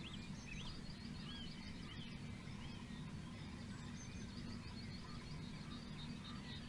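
Wild songbirds calling: short slurred chirps in the first couple of seconds, and quick runs of short high notes twice, over a steady low rumble.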